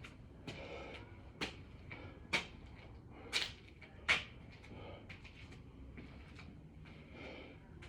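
A person doing six-count burpees: short sharp thuds and slaps of hands and feet landing on the floor, about six in the first four seconds with the loudest near the middle, against heavy breathing.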